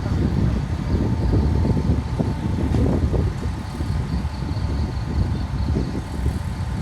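A moving vehicle: a steady, rough low rumble with no distinct events and a faint steady tone above it.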